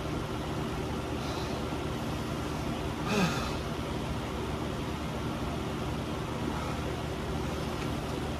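A person's short, falling groan with a breathy exhale about three seconds in, over a steady low hum.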